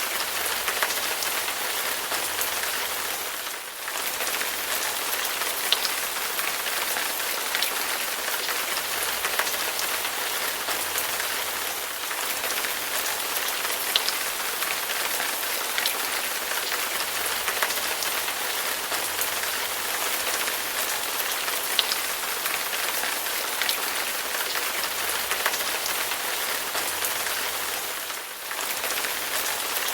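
Heavy rain falling steadily: an even hiss with scattered sharper drop hits, dipping briefly in level twice.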